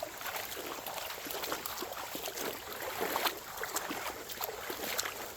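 Shallow creek water trickling and splashing, with small irregular splashes over a steady running-water hiss.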